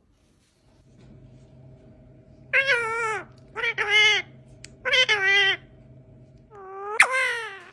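A parrot mimicking a cat: four drawn-out meows, each falling in pitch, the last rising sharply before it falls. A faint steady hum runs underneath.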